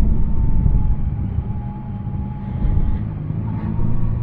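Yamaha Tracer 9's three-cylinder engine running steadily under way, with a thin steady whine above the engine note. The level dips a little around the middle and picks up again after about two and a half seconds.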